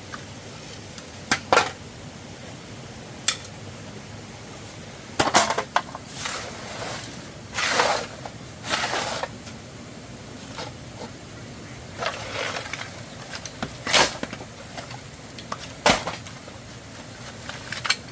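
Irregular knocks, clicks and clatters of objects being handled, with a few longer rustling or scraping swishes in between, over a steady low background.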